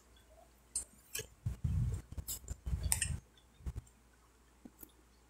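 Close-up chewing of a hand-fed mouthful of rice, pork and cassava flour: a couple of seconds of wet clicks and soft low thuds, followed by a few faint clicks as fingers gather food on a glass plate.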